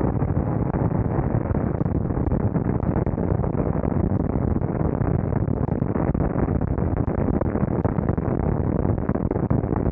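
Yamaha YZF-R1 sport motorcycle running, its engine sound mixed with a steady, loud rushing noise.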